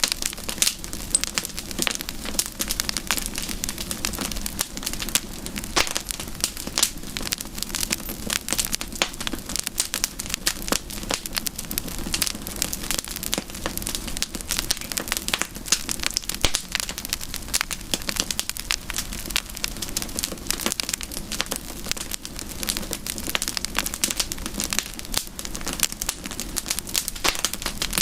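Campfire crackling, with dense, irregular pops and snaps over a steady low rush of burning.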